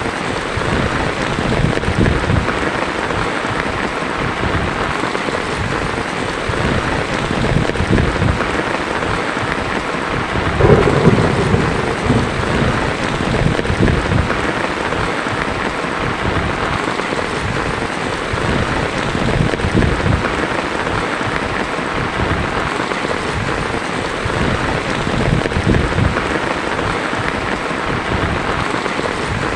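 Heavy rain falling on a tin roof, a steady dense patter, with a louder low rumble of thunder about eleven seconds in.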